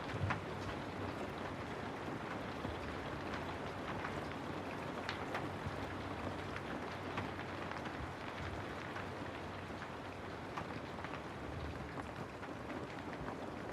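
Steady rainfall, an even hiss with many individual drops tapping sharply over it.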